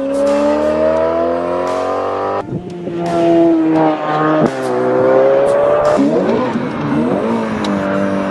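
Ferrari 488 Pista twin-turbo V8 through a Kline Innovation exhaust, accelerating hard. The engine note climbs, drops abruptly about two and a half seconds in as it changes gear, climbs again, and about six seconds in wavers quickly up and down before settling into a steadier pull.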